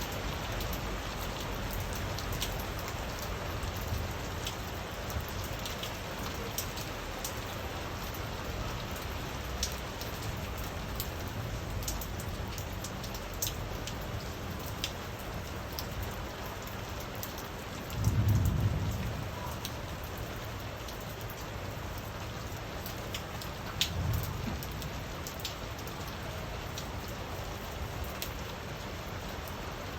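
Steady rain falling, with many scattered individual drops ticking. Two short low thumps stand out, about two-thirds of the way through and again a few seconds later.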